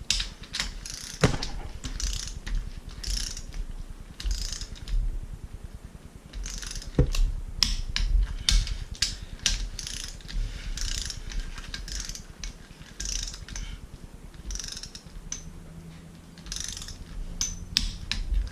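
Hand ratchet wrench clicking in repeated back-and-forth strokes with short pauses, run down on bolts of a Mazda 13B rotary engine being rebuilt.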